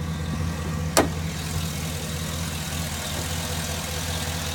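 2007 Cadillac Escalade ESV's V8 engine idling with a steady low hum. About a second in there is one sharp click, and a brighter hiss comes up after it.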